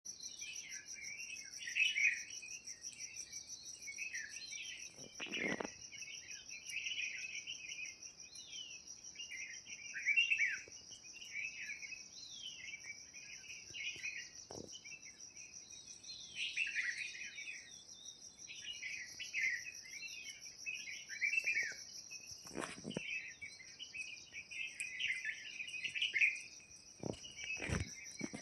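Many small birds chirping and calling in quick, overlapping phrases over a steady, high, pulsing insect drone. A few brief low bumps come in along the way.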